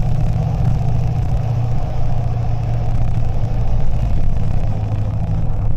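Car interior noise while driving: a steady low engine and road rumble with no sharp events.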